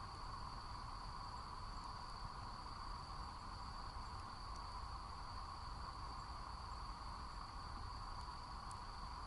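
Insects trilling steadily in a continuous, unbroken high-pitched chorus, with a steady lower hiss beneath it and a few faint ticks.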